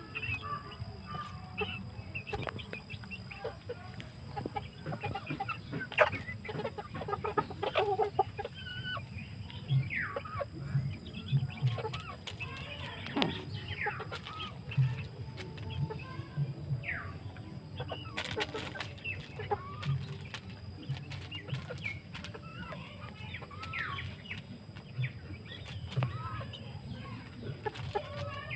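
A flock of desi (native) chickens clucking and calling, many short calls overlapping throughout, over a steady low hum.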